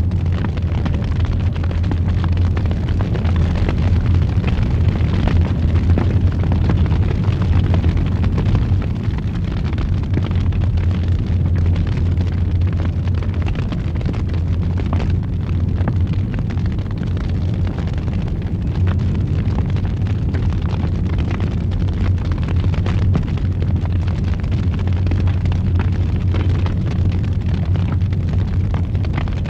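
Wood fire roaring in a fireplace: a steady deep rumble with frequent small crackles and pops from the burning wood.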